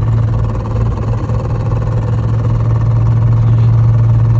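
Loud, steady low hum with a fast rhythmic churn from the drivetrain of a drift car while driving. It is a new fault noise that the owner places somewhere in the shifter, transmission or clutch area, and that a specialist takes for a failing drive shaft.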